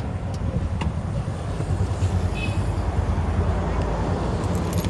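Motorcycle engine running steadily while riding, with road and wind noise and street traffic around it. A brief high-pitched tone sounds about halfway through.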